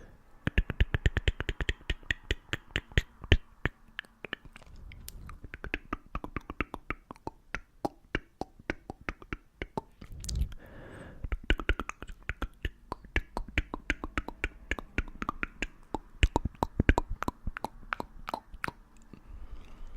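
Close-up ASMR mouth sounds: rapid, irregular wet clicks and pops from lips and tongue right at the microphone, with occasional breathy hiss between them.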